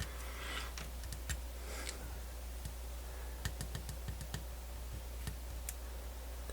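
Scattered light clicks and taps from a small portable MiniDisc player being handled and its buttons pressed, with a couple of soft swishes near the start, over a steady low electrical hum.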